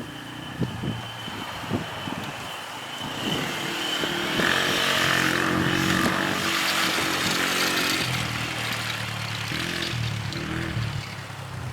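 Quad engine running, growing louder about four seconds in and easing off again near the end, with a couple of short knocks early on.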